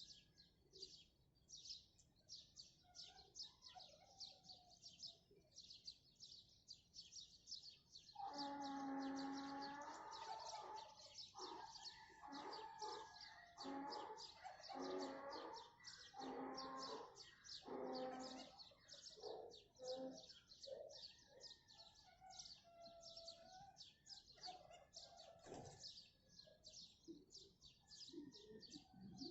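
Many small birds chirping rapidly and without a break. From about eight seconds in, a farm animal gives a loud, pitched call that goes on in repeated pulses for about ten seconds, then fades back to the birds.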